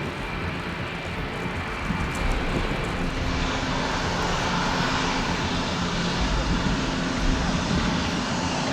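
Military helicopters flying overhead, a steady rotor and turbine drone that grows louder and brighter about three seconds in as they come closer.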